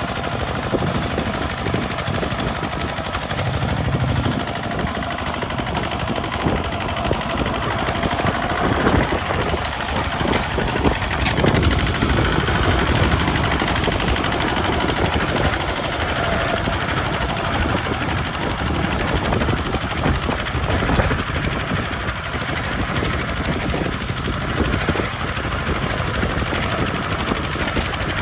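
Kubota RT single-cylinder diesel engine of a modified two-wheel hand tractor running steadily with a rapid chugging knock while pulling a plow.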